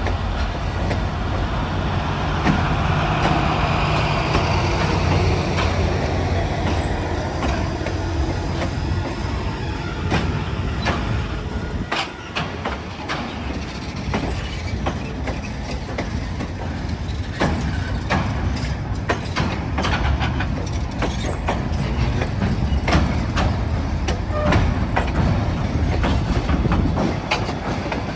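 Passenger excursion train running: a steady low rumble, with the wheels clicking over the rail joints from about ten seconds in.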